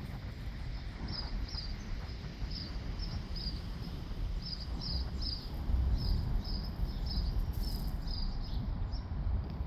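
A bird chirping over and over, short high chirps often in quick pairs, about two or three a second, over a steady low outdoor rumble.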